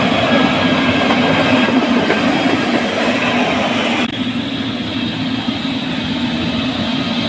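Heavy engine running steadily with a continuous mechanical rumble; about four seconds in, the sound changes abruptly as its hiss on top drops away.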